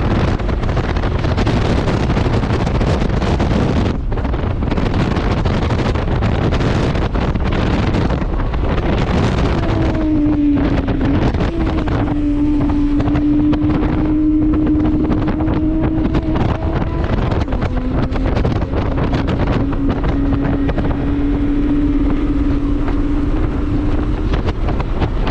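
Heavy wind buffeting the microphone of a moving modified 2001 Subaru 2.5RS. About ten seconds in, a steady drone comes in over it, dips briefly, then holds with a short break before fading near the end.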